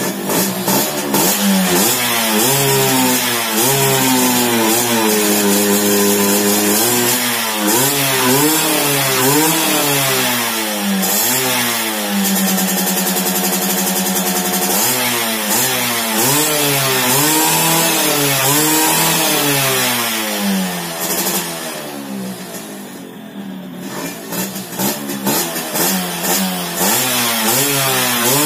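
Yamaha F1ZR two-stroke single-cylinder motorcycle engine being revved by hand, the revs swinging up and down repeatedly, held high and steady for a few seconds near the middle, falling back low for a while and then picking up again, as its road-race carburettor is tuned.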